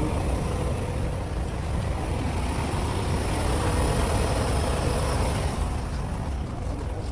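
Heavy diesel semi-truck running, a steady low rumble with no breaks.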